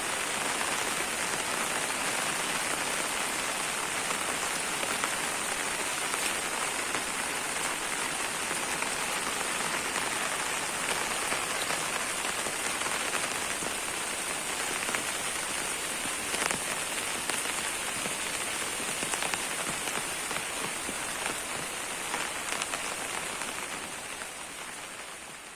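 Heavy rain falling steadily, with a sharp drop tick standing out now and then. It fades out over the last few seconds.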